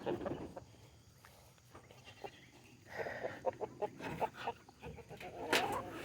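Farmyard ducks and chickens calling in short scattered bursts, mostly in the second half, with a sharp clatter near the end.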